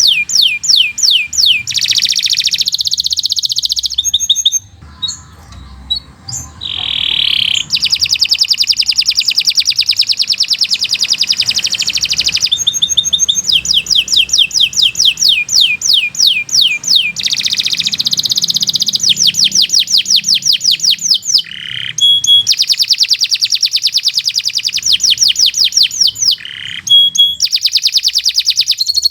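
Domestic canary singing a long, loud song of rapid trills, each a fast run of repeated sweeping notes, changing from one trill to the next, with a brief lull about five seconds in.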